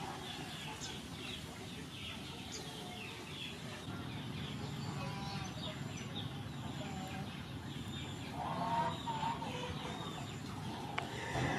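Birds calling, many short chirps one after another, with a louder call about eight to nine seconds in, over a steady background hiss.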